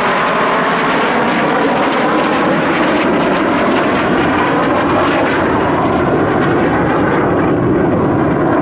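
BAE Hawk T1 jets with Rolls-Royce Adour turbofans flying a display pass: loud, steady jet noise with no break.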